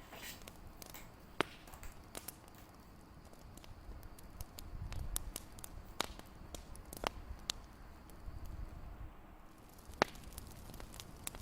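Fireplace crackling: a low, soft rumble of burning with irregular sharp pops and snaps of wood, the loudest about a second in and near the end.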